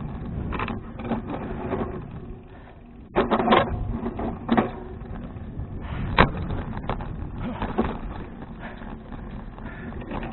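A bicycle rolls along with steady tyre and wind rumble on an action camera. Its frame and fittings give several sharp rattling knocks over bumps, the loudest a cluster about three seconds in and a single knock about six seconds in.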